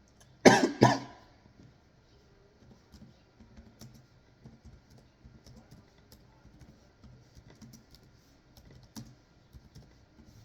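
A person coughs twice in quick succession, loud and close, followed by faint scattered clicks.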